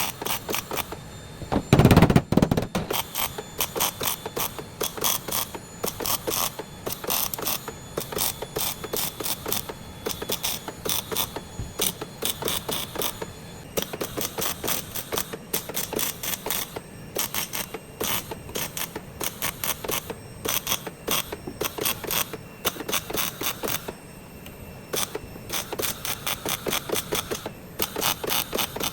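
Ratchet clicking in rapid repeated bursts, as when bolts are run in or out with a hand ratchet during car repair, with one heavy thump about two seconds in.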